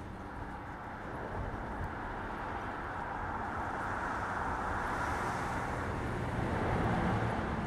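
Electric freight train rolling past: a steady rumble and hiss of the wagons' wheels on the rails, growing louder toward the end.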